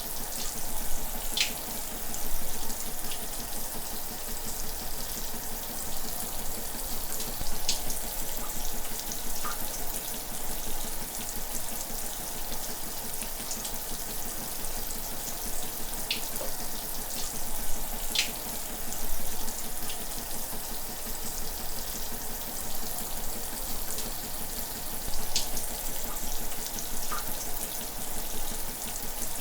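Shower running steadily: a constant hiss of falling water with brief brighter splashes now and then.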